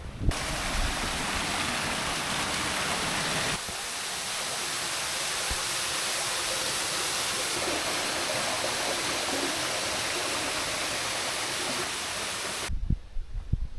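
Waterfall rushing: a steady hiss of falling water, which changes abruptly a few seconds in and cuts off suddenly near the end.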